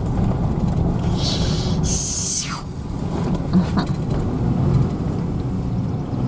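Pickup truck driving, a steady low engine and road rumble, with a brief hiss between about one and two and a half seconds in.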